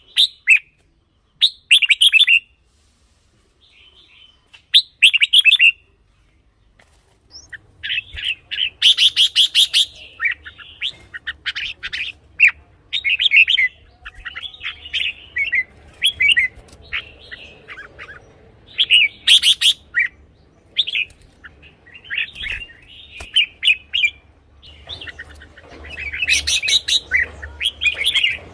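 Red-whiskered bulbul singing: short, loud whistled phrases, a few spaced apart at first, then coming almost without pause from about eight seconds in.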